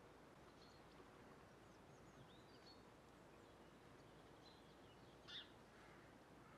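Near silence: faint outdoor background hiss with a few faint, high chirps of small birds, the loudest a short one about five seconds in.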